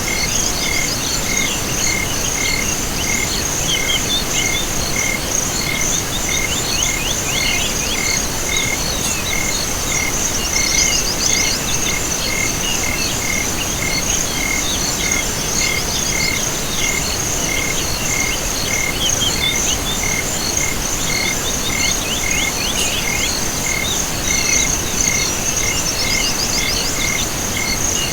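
A chorus of crickets and other insects: a steady high trill and an even chirp about twice a second, with bursts of quick rising calls every few seconds.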